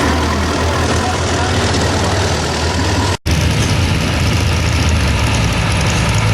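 Heavy engine of a modified pulling tractor running steadily at low speed, with the sound cutting out for an instant about three seconds in.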